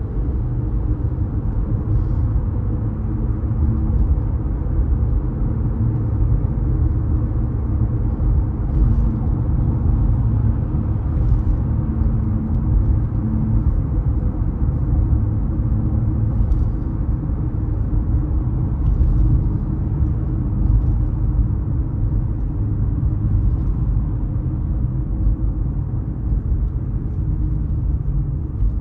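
Car driving through city streets, a steady low road and engine rumble. Faint clicks come now and then over it.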